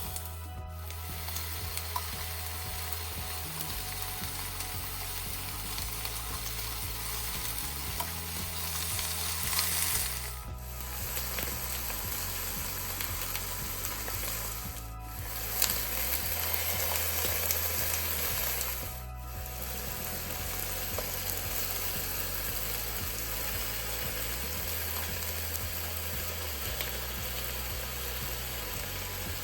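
Food sizzling as it fries in oil in a hot pan, with some stirring; the sizzle drops out briefly three or four times.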